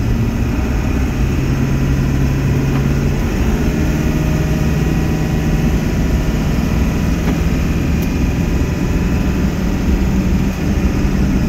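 Ford F350's 7.3-litre turbo diesel engine running as the truck drives, heard from inside the cab along with road rumble. Its low drone steps up slightly in pitch about three and a half seconds in.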